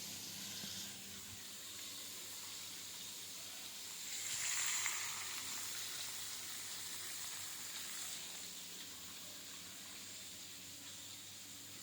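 Hot oil sizzling steadily in a frying pan, swelling louder for about a second around four seconds in.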